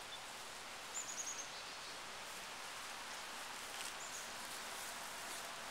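Steady woodland ambience, a soft hiss of air and leaves. A small bird gives a quick run of five or six high chirps about a second in, and one more short chirp near four seconds.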